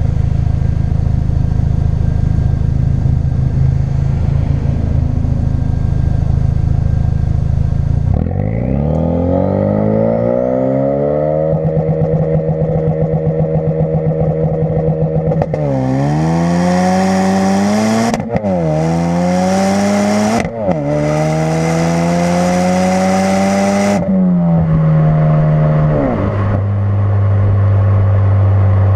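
2016 Ford Focus RS's turbocharged four-cylinder through a custom-fabricated exhaust, pulling hard under acceleration. The engine note climbs, holds, then rises through several upshifts, the pitch dropping sharply at each shift, before settling to a steady lower drone near the end.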